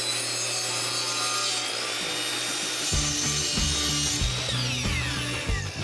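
Electric power saw running through a wooden board with a steady hum and hiss. About three seconds in, background music with a bass beat comes in over it.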